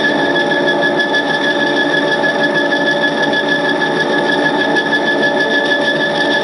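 Edgwick metal lathe running steadily, with a constant high whine over a fast, even mechanical rattle.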